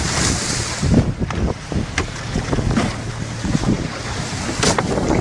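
Small motorboat under way: steady low rumble of the motor and rushing water, with wind buffeting the microphone and a few sharp slaps of water along the hull.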